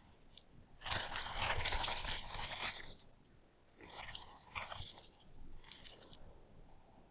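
Irregular rustling and scraping from hands handling fabric and shoes, a longer stretch early on and shorter scattered bits later.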